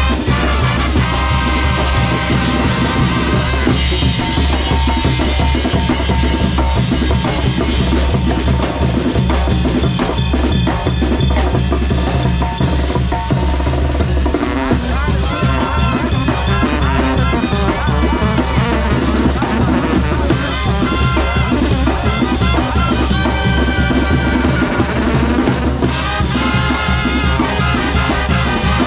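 Mexican brass band (banda de viento) playing a lively tune, with brass melody over steady bass drum and snare drum, including drum rolls.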